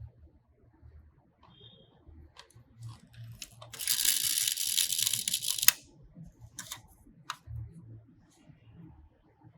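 Handling noises: scattered small clicks, and in the middle a loud rasping, tearing-like noise about two seconds long that ends in a sharp click.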